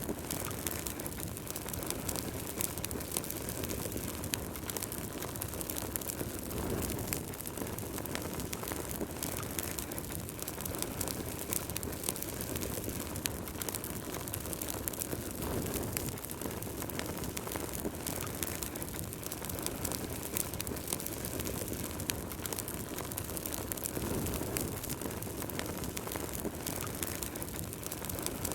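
Wood fire burning in a fireplace: a steady low rush of flames with frequent sharp crackles and small pops of burning logs.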